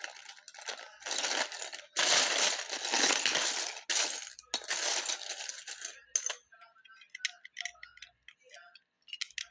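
Loose Lego bricks rattling and clattering as a pile of them is stirred through, loudest in a long rattle about two seconds in, then a few light plastic clicks near the end.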